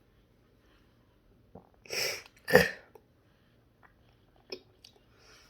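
A person sneezing once from sinus congestion: a short breathy lead-in, then a sharp, loud sneeze about two and a half seconds in. A few faint ticks follow.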